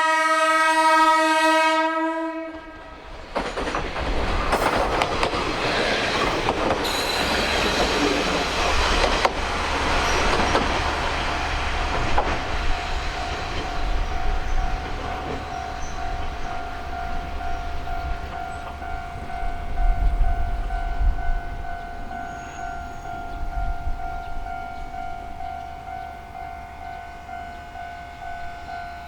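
A Kominato Railway diesel railcar sounds its horn in one steady blast of about two and a half seconds. The train then moves off, with engine and wheel noise, rail clatter and a steady whine that slowly fades toward the end.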